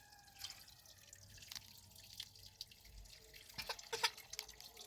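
Water dripping and splashing faintly, with scattered small ticks and a few sharper knocks about three and a half to four seconds in.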